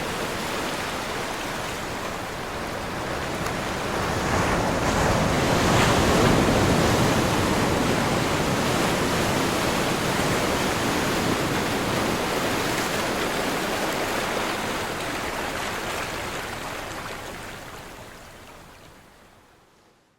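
Ocean surf crashing on a shore: a dense rush of wave noise that swells to its loudest about six seconds in, holds, then fades out near the end.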